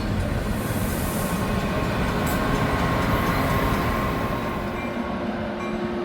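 A train running along the tracks: a steady, continuous rumble with a faint steady whine.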